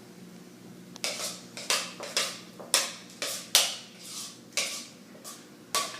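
A spoon knocking and scraping against a mixing bowl about a dozen times, at an uneven pace of roughly two strokes a second, starting about a second in, as cream cheese mixture is scooped out.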